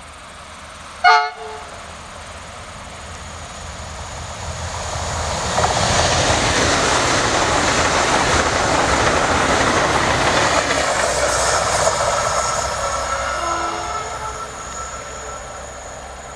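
A PKP Intercity ED250 Pendolino high-speed electric train passes at speed: a rushing noise of wheels and air swells up, holds for several seconds and fades away. About a second in there is one short, sharp horn blast, the loudest moment.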